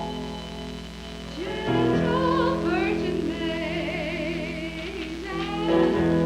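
Church cantata music: sustained keyboard chords, joined about a second and a half in by a high singing voice holding notes with a wide vibrato.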